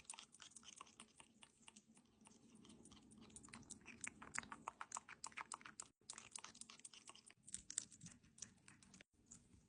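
Faint, rapid clicking of a parrot's beak and tongue as it sips and tastes tea from a cup, several small clicks a second with brief pauses.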